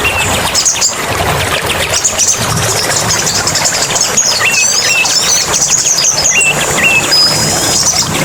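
Small birds twittering in fast high chirps, with a few short rising whistles and one held high note near the end, over a steady rush of running water.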